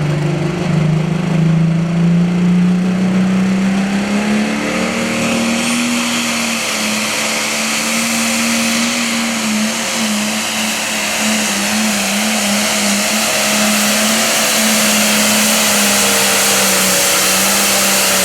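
Case Super Farm class pulling tractor's engine running at full power down the track. Its pitch rises over the first few seconds, then holds steady with a slight waver.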